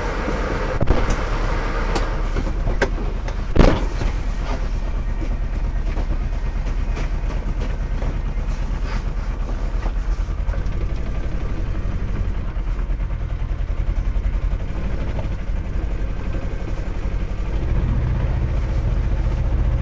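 Vehicle engine running steadily with a low, rhythmic chug. There are a few sharp knocks in the first four seconds, the loudest about three and a half seconds in, and the engine grows louder near the end.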